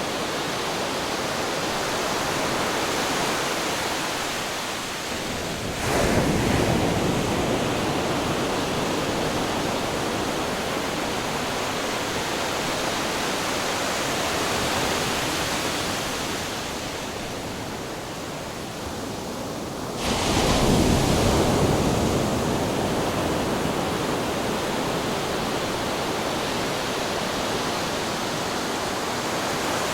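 Ocean waves crashing against rocks: a steady wash of surf, with two waves breaking hard about 6 seconds and 20 seconds in and slowly washing back.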